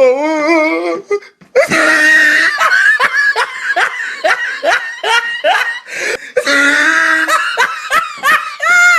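People laughing hard in long runs of rapid "ha-ha" bursts, about three a second. A wavering, wobbling vocal tone fills the first second.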